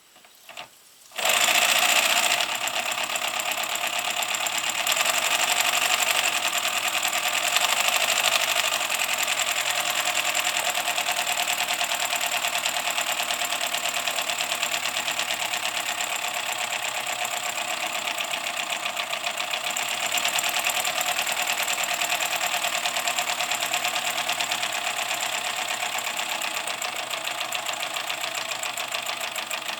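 MSS kit-built side tank live steam locomotive getting under way about a second in, then running with a rapid, steady chuff of steam exhaust beats.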